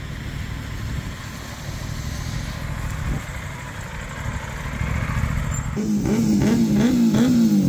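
Aprilia RS 457 parallel-twin motorcycle engines running with a low rumble. About six seconds in, one is revved in a series of quick blips, its pitch rising and falling.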